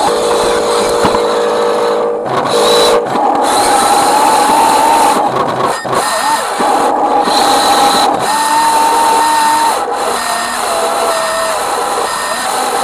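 Electric motor and gearbox of a radio-controlled truck whining. The pitch steps up and down as the throttle changes, with several brief cuts.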